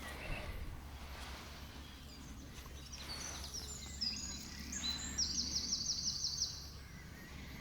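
A songbird singing high, rapid notes that run into a fast, even trill, over a steady low rumble of outdoor background noise.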